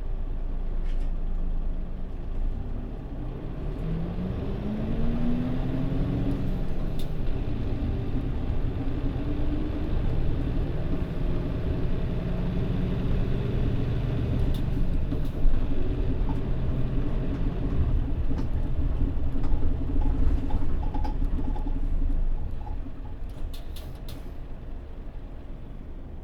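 Diesel engine of a Mitsubishi Fuso Aero Star city bus (PJ-MP35JM) heard from inside the cabin, pulling away with its pitch rising through the gears twice in the first ten seconds, then running steadily under way. It quietens near the end.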